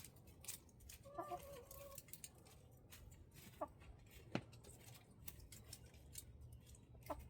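Mostly near silence, with a domestic hen giving one soft, low pitched call about a second in, and a few faint sharp clicks and scratches later.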